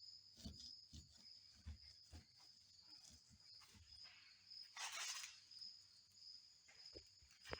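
Crickets chirring steadily in the background, with scattered faint knocks of handling. About five seconds in there is a brief hiss.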